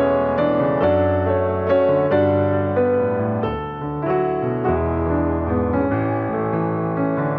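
Soft background piano music, a slow melody over sustained chords.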